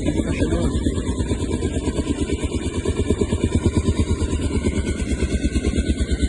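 Helicopter rotor beating steadily in a fast, even rhythm, with engine noise underneath.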